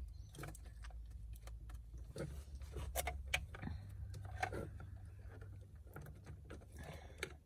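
Plastic wiring-harness connectors and loose cables being handled and plugged into the back of a car stereo head unit: scattered small clicks and rattles, the sharpest about three seconds in, over a steady low hum.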